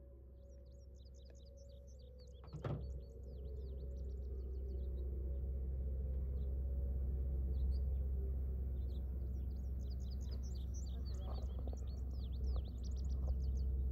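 Small birds chirping in two bursts over a low steady rumble, with a single knock a little under 3 seconds in. The Whelen WPS-2910 electronic siren's last faint tone falls away and fades out over the first few seconds.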